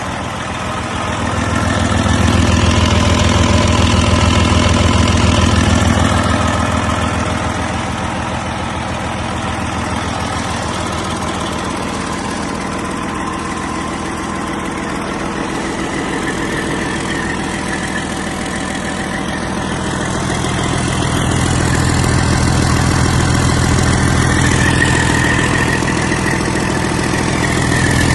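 Detroit Diesel Series 60 14.0-litre inline-six turbo diesel engine running on a test run. It runs louder for a few seconds about two seconds in and again about twenty seconds in, settling back between.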